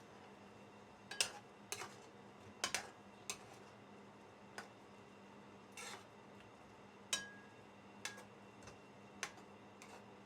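A metal spoon clinking and tapping against a cooking pot of curry: about ten irregular clinks, one with a brief ringing tone about seven seconds in, over a faint steady hum.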